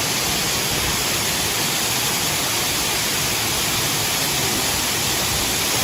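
Waterfall running with only a little water, giving a steady, even rush of falling water.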